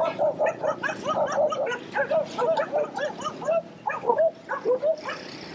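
Dogs barking: a rapid, unbroken run of short barks, several a second.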